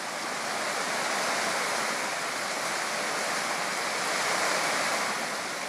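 Heavy hurricane rain pouring down steadily, a dense, even rush of water.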